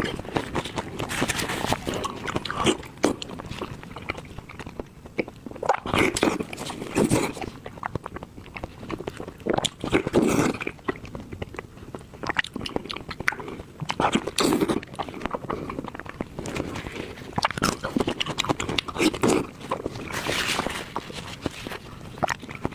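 Close-up chewing and biting of stewed pork, with mouth clicks and chomps coming in irregular bursts.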